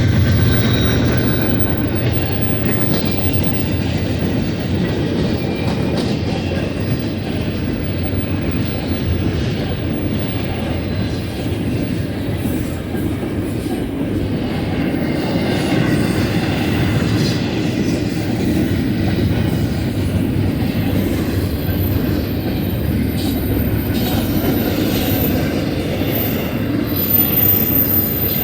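Double-stack container cars of a freight train rolling past: steady rumble of wheels on rail, with a faint high squeal from the wheels now and then.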